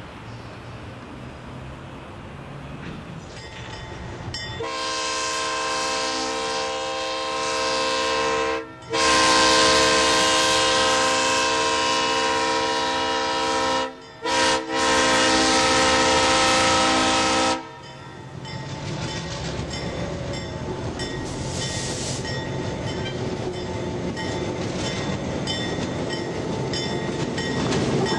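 Diesel locomotive air horn blowing the grade-crossing signal: two long blasts, a short one and a long one, over about thirteen seconds. Around it the train's engine and wheels on the rails rumble, growing louder near the end as it passes.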